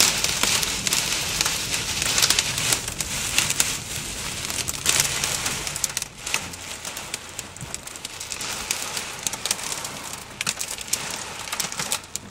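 Torrential storm rain lashing a car's roof and windshield, heard from inside the cabin as a dense rush full of sharp hits. It eases somewhat about halfway through.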